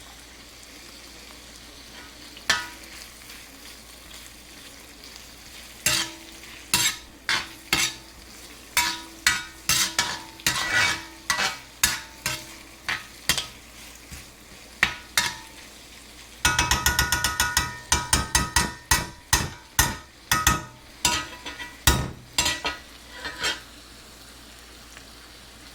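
Vegetables sizzling in hot oil in a pan, with a utensil knocking and scraping against the pan as they are stirred. The sizzle stays steady and quiet. The clatter starts a few seconds in, comes in rapid strokes about two-thirds of the way through, and stops shortly before the end.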